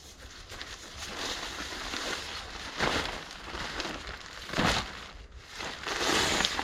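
Rustling and crinkling of a lightweight camping tarp as it is handled and unfolded, with three louder swishes.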